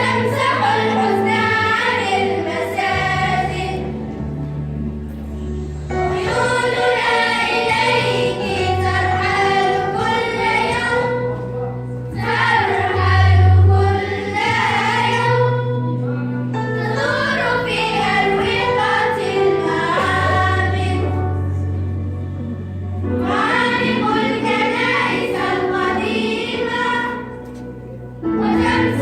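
A school children's choir singing an Arabic nasheed in unison, in phrases of a few seconds with short breaks between them, over sustained low backing notes.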